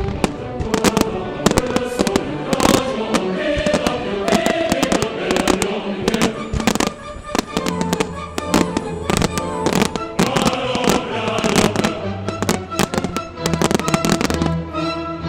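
Fireworks going off in many sharp, irregular bangs and crackles, over loud music with sustained tones.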